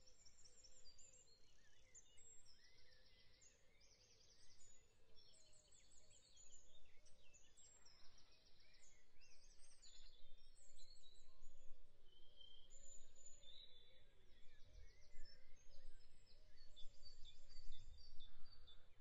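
Faint birdsong: small birds chirping and giving quick high trills throughout, over low background noise.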